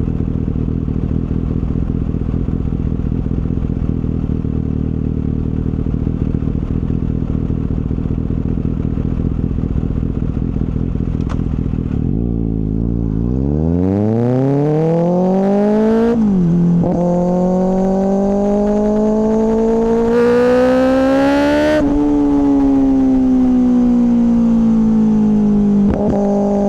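Kawasaki ZX-6R inline-four with an M4 slip-on exhaust running low and rumbly, then revving hard as it accelerates. The pitch climbs steeply, dips once at a gear change, climbs again, then falls away slowly as the bike rolls off, with a quick blip near the end.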